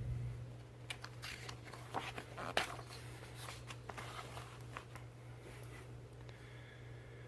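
Faint paper rustling and a few sharp clicks from the pages of a picture book being handled and turned, over a steady low hum.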